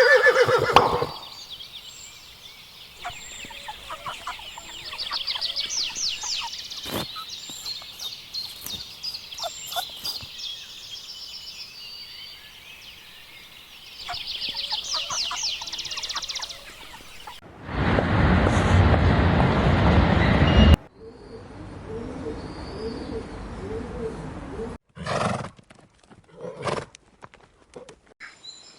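A run of short animal-call clips: bouts of rapid, high trilling bird calls, then about three seconds of loud rushing noise that cuts off suddenly, then a few short sharp calls.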